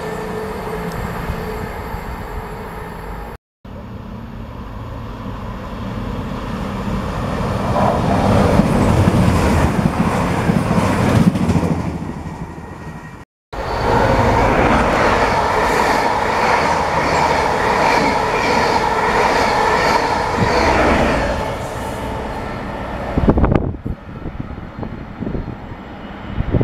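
Diesel passenger trains running past on the coastal main line, in separate cut-together passes. One train approaches with a deep rumble of engines and wheels that swells to its loudest as it passes. Another comes with a steady engine drone and wheel clatter that fades away, followed by a few sharp clicks near the end.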